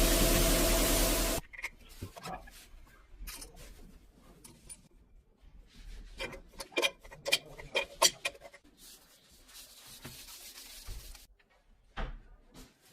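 A loud hiss with a low hum that cuts off abruptly about a second and a half in. Then hands handle objects: scattered rubbing, knocking and clicking, busiest a little past the middle, with a shorter, softer hiss near the end and a sharp knock.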